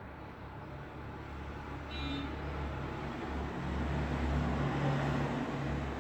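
Road traffic noise: a steady low rumble of cars going by, swelling in the second half as a vehicle passes close. A brief high-pitched tone sounds about two seconds in.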